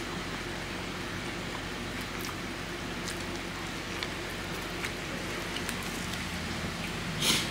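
Close-up eating sounds of a nori-wrapped rice ball being bitten and chewed: faint scattered crackly clicks over a steady hiss, with one short louder rush of noise near the end.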